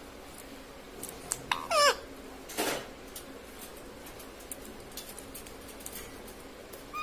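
Pet ring-necked parakeet giving one short call that slides down in pitch about two seconds in, followed by a brief harsher burst and a few soft clicks.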